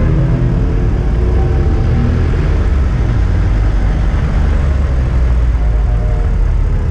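Car engine and exhaust running with a heavy, steady low rumble, its fainter engine notes drifting up and down in pitch.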